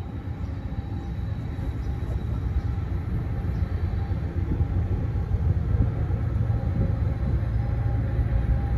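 An approaching train: a low, steady engine rumble with a few held tones, growing gradually louder as it nears.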